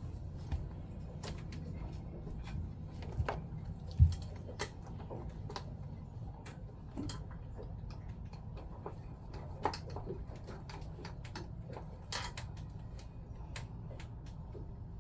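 Scattered clicks and knocks of Jabsco pump parts being handled and tapped while a part is forced into place, the sharpest knock about four seconds in, over a steady low hum.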